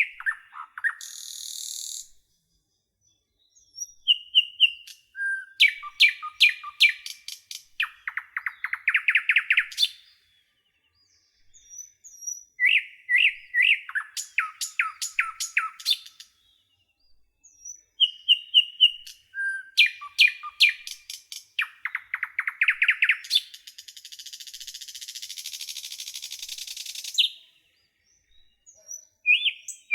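Songbird song in bursts of a few seconds separated by short silent gaps: runs of quick high chirps, each burst ending in a rattling trill, with a hissing noise once briefly and once for about three seconds.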